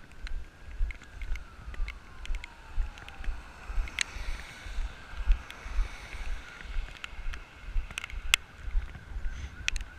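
Footsteps, about two a second, thudding through a body-worn GoPro as someone walks in the rain, with scattered sharp ticks of raindrops hitting the camera housing.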